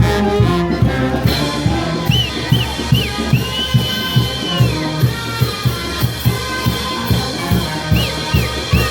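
Andean brass band playing: brass instruments over a steady drum beat of about three strokes a second, with high melody notes that slide and bend.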